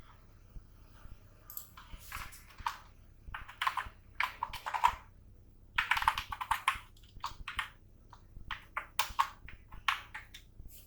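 Typing on a computer keyboard in quick irregular bursts of key clicks, with short pauses between runs.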